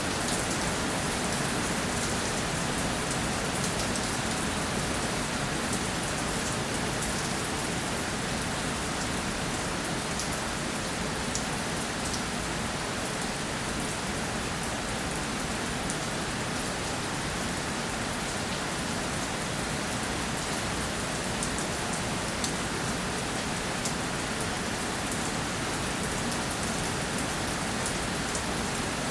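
Steady rainfall, with many small drop ticks over an even hiss of rain on surfaces.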